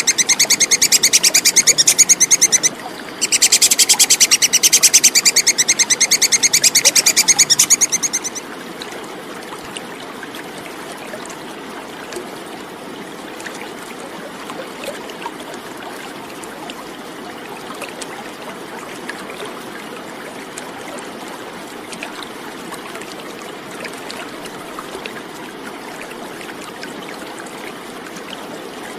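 Tupai (squirrel) giving its 'kekes' alarm chatter, a very fast run of sharp high calls with a brief break, which stops about eight seconds in. A steady faint background hiss with scattered faint ticks follows.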